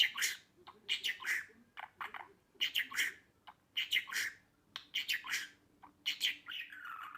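Budgerigar chattering and warbling in short chirpy bursts, about one or two a second, with a longer warble near the end: the kind of budgie song played to pet budgies to get them singing and talking.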